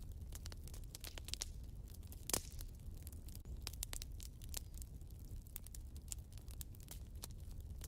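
Wood fire burning in a fireplace: a low steady rumble of flames with irregular crackles and pops, one sharper pop about two and a half seconds in.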